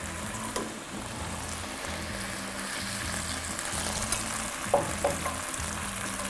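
Pieces of spicy salami and chili pepper sizzling in a frying pan, a steady hiss.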